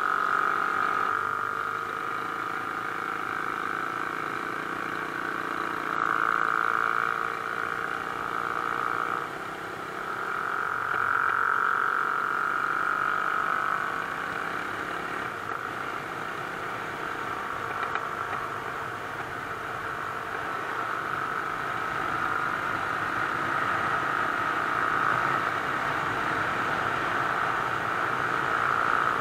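Mash Cafe Racer 250's single-cylinder four-stroke engine and exhaust running under way at road speed, heard from a camera mounted on the bike along with wind noise. The note swells a few times with throttle, and the bike shifts up from fourth into fifth gear.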